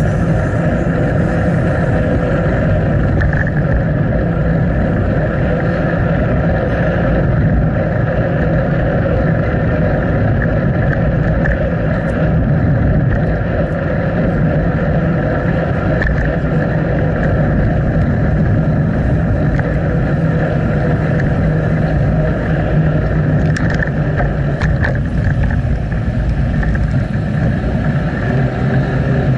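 Steady wind and riding noise on a bicycle-mounted action camera's microphone, a constant, loud rushing with a low hum that does not let up.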